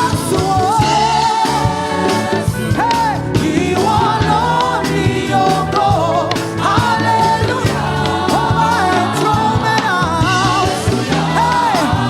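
Live gospel praise-and-worship music: a lead vocalist sings long, wavering held notes over a full band accompaniment.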